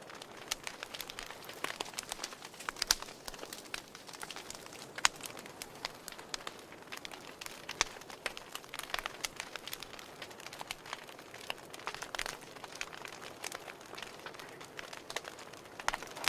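Fire crackling: a soft hiss with irregular sharp pops and snaps throughout, a few louder pops standing out.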